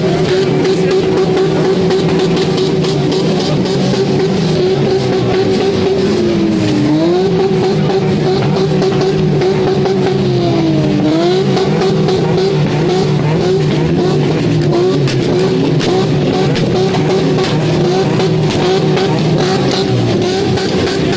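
Modified car exhaust with the engine held at high, steady revs. The revs dip and climb back twice, about a third of the way in and again about halfway.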